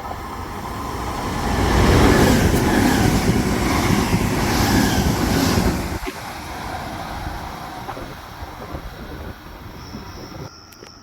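A train passes through the station on the rails. It builds to its loudest about two seconds in, stays loud with wheel and rail noise, then drops off sharply after about six seconds and fades away.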